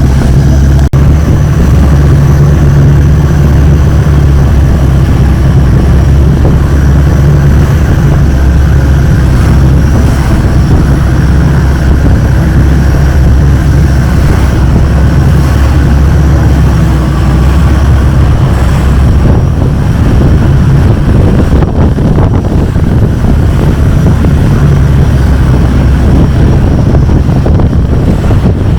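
Longtail boat engine running loud and steady, a deep even drone.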